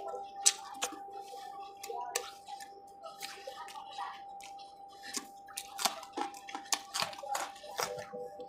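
Close-up mouth sounds of a man chewing spicy fried chicken liver: many short, irregular wet clicks and smacks.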